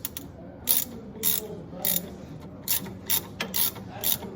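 Ratchet wrench being cranked back and forth on a bolt, a short burst of clicks with each swing, about two swings a second.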